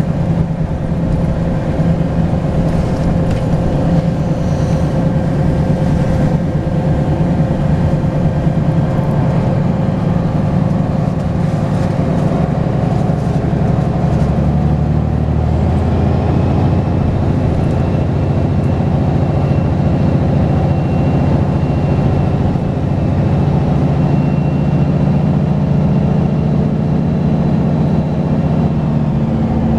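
Volvo B10BLE bus's six-cylinder turbodiesel running under way, with a thin high turbo whistle rising in about halfway through and holding until near the end.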